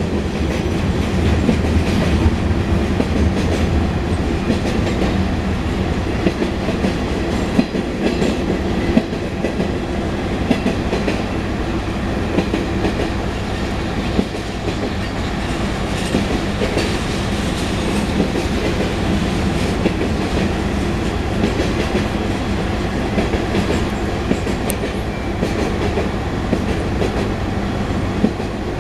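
Union Pacific mixed freight train's cars rolling past, steel wheels clicking over rail joints in a steady, continuous rumble.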